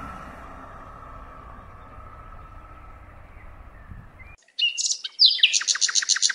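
Motorhome driving away, its road noise slowly fading, then cut off abruptly. A moment later a bird chirps loudly and breaks into a rapid high trill of about eight notes a second.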